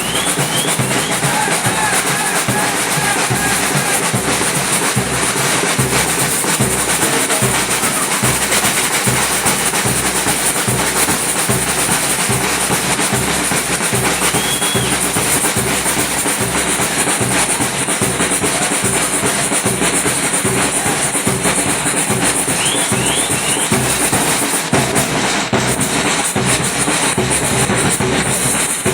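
Samba batucada drum section playing a steady, driving groove: deep bass drums pounding an even beat under dense snare and hand-percussion rhythms. A few short high chirps cut through now and then.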